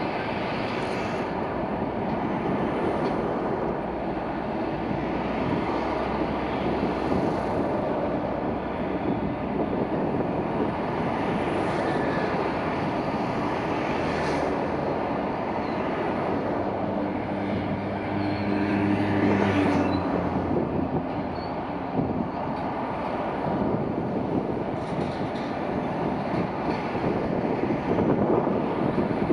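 Intermodal container freight train rolling past, a steady noise of wheels on rails, with a low humming tone for a few seconds past the middle.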